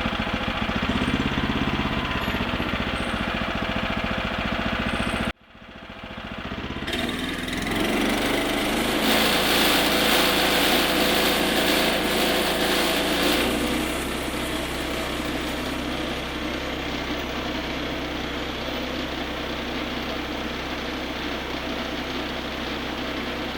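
Gasoline engine of a bandsaw mill running steadily. The sound cuts out abruptly about five seconds in, builds back up and runs louder for several seconds, then settles to a lower, even running note.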